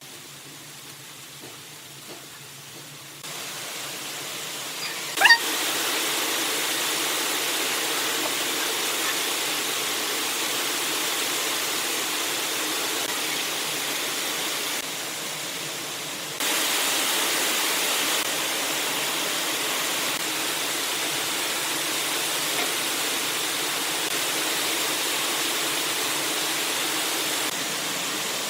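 Steady hiss of a turning tool cutting wood on a spinning lathe, its level jumping up or down abruptly several times, with one sharp knock about five seconds in.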